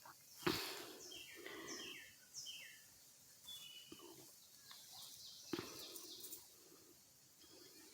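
Wild birds chirping: many short, downward-sliding high notes repeated throughout. Two sharp clicks, one about half a second in and one past the middle.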